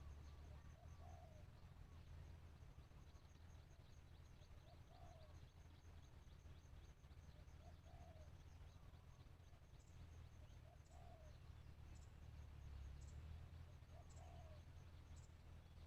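Spotted dove cooing faintly, a short coo repeated about every three seconds: a decoy bird calling to lure wild doves. A faint, rapid high ticking runs underneath.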